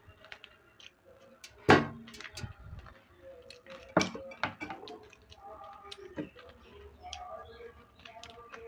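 Eating sounds as rice and dal are eaten from a plate: scattered sharp clicks and knocks of mouth and dish, the loudest nearly two seconds in and another about four seconds in.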